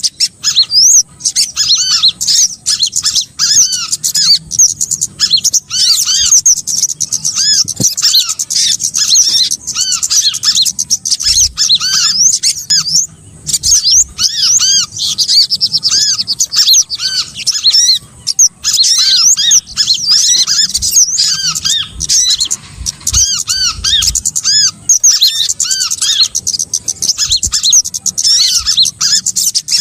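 Bird-lure recording of small songbirds calling: a dense, unbroken stream of rapid, high, arching chirps.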